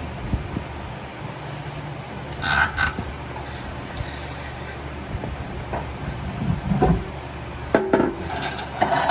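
Scattered metallic clinks, knocks and scrapes of hand work on a car's exhaust and its hanging hardware, over a steady low hum. The clinks cluster about two and a half seconds in and again near the end.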